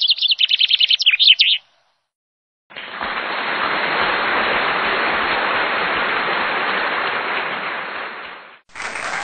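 A burst of rapid, high bird chirping, a quick string of repeated notes that cuts off about a second and a half in. After a short silence comes a steady, even rushing hiss lasting about six seconds, which starts and stops abruptly.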